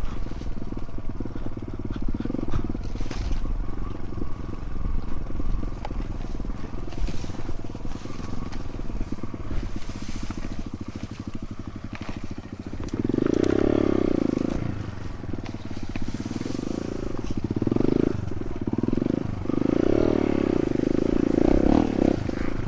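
Dirt bike engine running at low speed on a rough trail. From about halfway through, the throttle is opened in several short surges that rise and fall.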